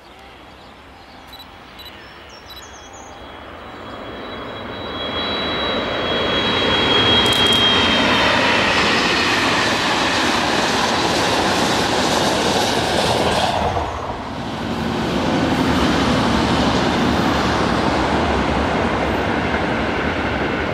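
Intercity train hauled by an Italian E.402B electric locomotive running at speed over a concrete viaduct: a rumble of wheels on rail that swells over the first seven seconds, with a high thin whine as it comes near, then holds steady. A short drop about fourteen seconds in, after which a second passing train keeps the same steady rumble.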